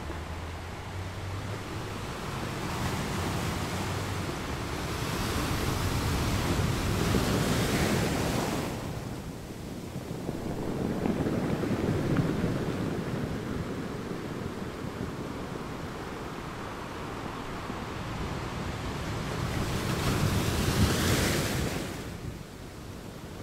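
Ocean waves washing in and out: a surging noise that swells and falls away every few seconds, with the biggest swells near the middle and near the end.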